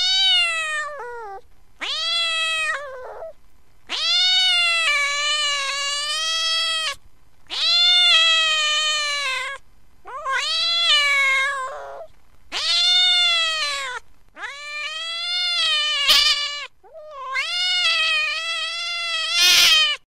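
Recorded domestic cat yowling in about eight long, drawn-out calls, each one to three seconds and mostly dropping in pitch at the end: an upset, angry cat.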